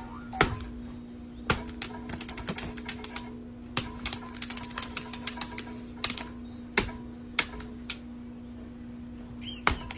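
Sharp, irregular clicks and taps, some in quick runs of several a second, over a steady low hum.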